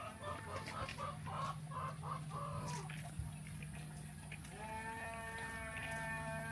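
Chickens clucking in a quick run of short calls, which stops about three seconds in. Then a long drawn-out farm-animal call starts partway through and keeps going, over a steady low hum.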